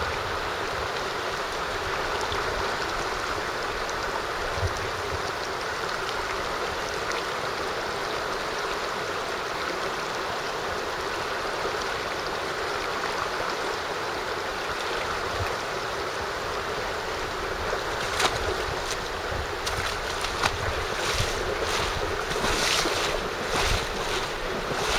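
Mountain stream rushing steadily over its bed, a constant noise of flowing water. In the last few seconds a run of short sharp noises sounds over it.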